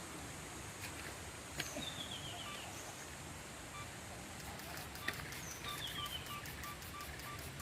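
Forest ambience: a steady high insect drone, with a bird's short descending chirping call twice and a run of short even notes at about three a second in the second half.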